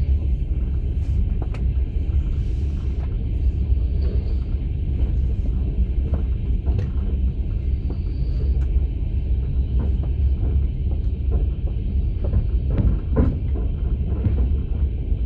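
Steady low rumble of a moving passenger train heard from inside a sleeper carriage, with a few faint, irregular knocks.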